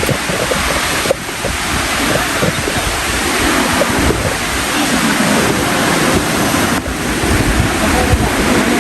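Steady loud rush of water from a waterfall, with wind buffeting the microphone in gusts.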